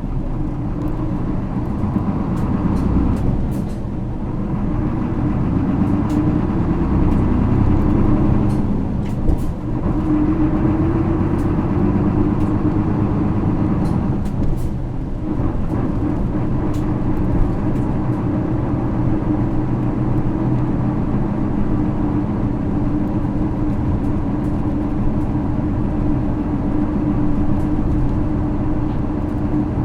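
Running sound inside a 2009 Isuzu Erga city bus (PKG-LV234L2) with its 6HK1 inline-six diesel. The engine pulls up through the gears of its five-speed manual box, with short dips in the drone at gear changes about 4, 9 and 15 seconds in, then runs steadily.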